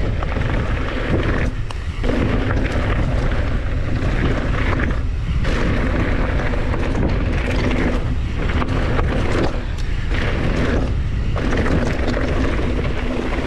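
Loud wind buffeting the camera microphone while a mountain bike is ridden along a dirt trail, easing briefly several times.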